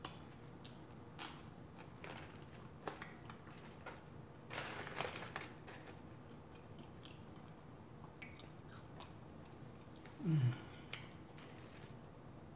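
A person chewing and crunching fried food, french fries and fried chicken wings, with scattered small crisp crunches and mouth clicks, busiest about five seconds in. A brief low hum with falling pitch comes about ten seconds in.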